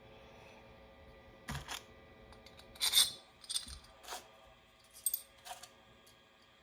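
Small metal parts clicking and clinking as they are handled: two brass plates, a bolt and a spring being stacked together, with about half a dozen light knocks, the sharpest about three seconds in.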